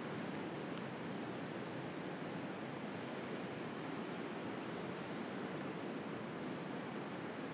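Steady rush of sea surf, with a few faint, sharp crackles from a wood bonfire.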